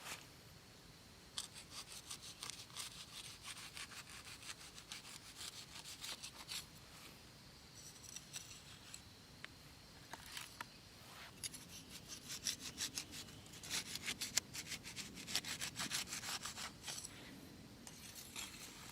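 Wood being worked by hand with a blade in quick repeated rasping strokes, like sawing or scraping a stick, in two runs with a pause of a few seconds between them.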